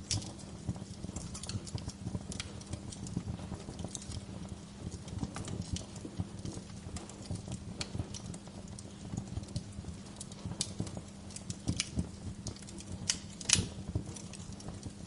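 Wood log fire crackling, with irregular sharp pops and snaps and a louder pop near the end.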